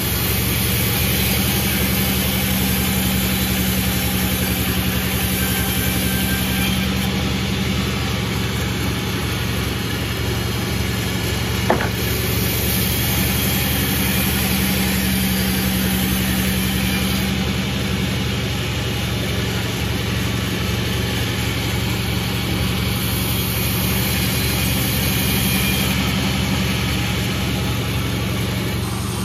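Panda36 sawmill running steadily under its engine, a constant low hum with a high hiss that comes and goes three times and a single sharp click about halfway through.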